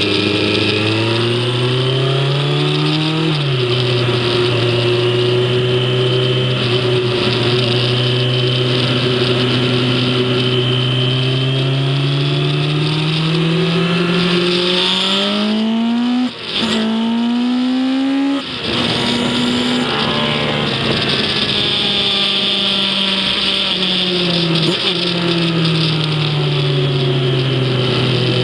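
A racing engine under hard acceleration at the track: its note climbs steadily, then is shifted up twice in quick succession, each change a short dip and drop in pitch. After that the revs fall away for several seconds as it slows, then rise again near the end.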